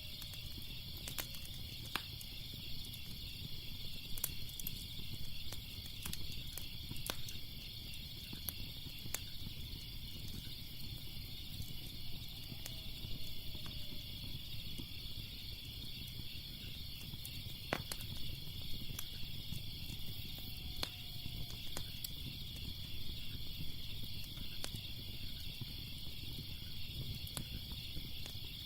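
Crackling fire: irregular sharp pops and snaps over a low rumble, with crickets chirping steadily at a high pitch behind it.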